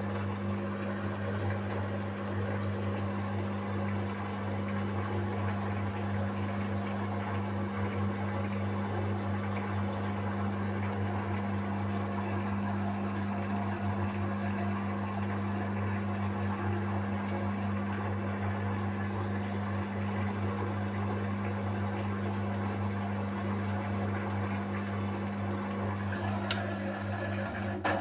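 Beko WMY81283LMB2 washing machine running with a steady low hum, with one sharp click near the end.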